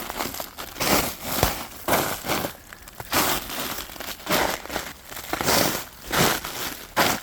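Footsteps crunching on a mountain trail during a downhill hike, one noisy crunch roughly every second.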